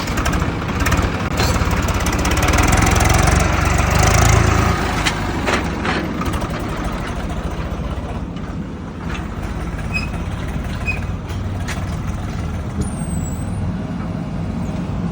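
Heavy diesel machinery running: a deep engine rumble, louder and with a hissing edge over the first few seconds, then settling to a steady run, with a few sharp knocks.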